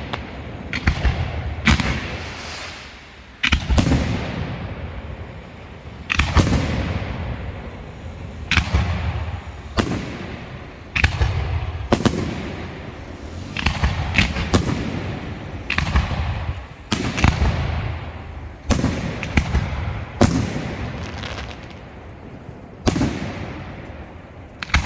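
Fireworks going off: a steady series of loud bangs, about one every second or two. Each bang trails off in a rumble that dies away.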